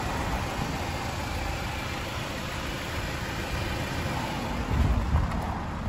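Mazda MX-5's four-cylinder engine idling steadily.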